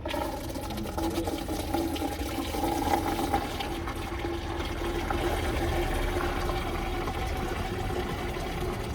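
Water running steadily into a container as it fills, with a steady ringing tone from the filling vessel.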